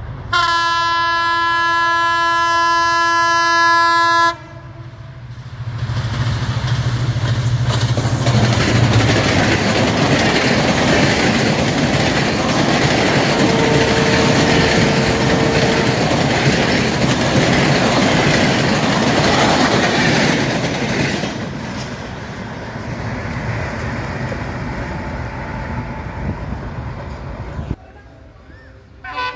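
Bangladesh Railway diesel locomotive sounding one long steady horn blast of about four seconds as it approaches, then passing at speed: the engine's hum, then its coaches rushing by with the clickety-clack of wheels on the rail joints, fading after about twenty seconds. A short horn toot right at the end.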